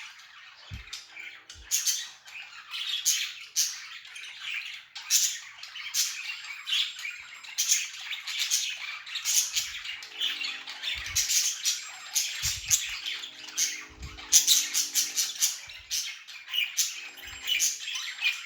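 A flock of budgies chattering and chirping, with many short, overlapping calls and squawks packed closely together.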